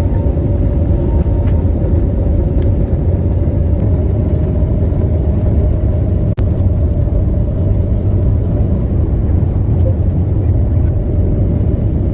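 Airbus A321neo's Pratt & Whitney PW1130G-JM geared turbofan engines running under power: a loud, steady rumble with a whining tone that rises slightly in pitch over the first few seconds, then holds steady. The sound drops out for an instant about six seconds in.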